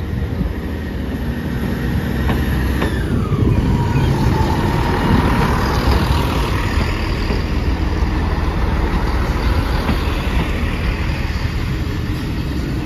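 Transport for Wales diesel multiple unit passing over a level crossing: its diesel engines and wheels on the rails make a steady rumble that builds over the first few seconds and stays loud. A high squeal falls in pitch about three seconds in.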